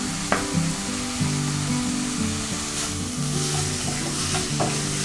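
Prawns, onion and tomato sizzling in a frying pan while a spatula stirs them, with a sharp knock of the spatula on the pan about a third of a second in and a few lighter scrapes later. Background music plays along.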